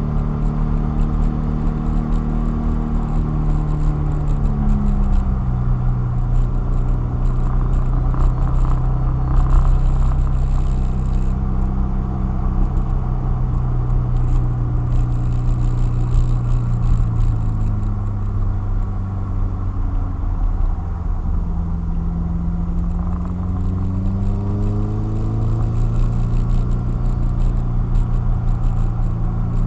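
A car's engine, heard from inside the cabin, pulling at a fairly steady pitch at speed over road and tyre rumble. About halfway through the engine note drops as the car eases off, then climbs again in a few steps near the end as it accelerates.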